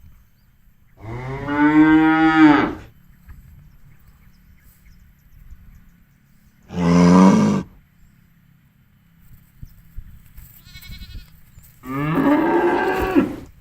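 A cow mooing three times: two long moos with a short one between them.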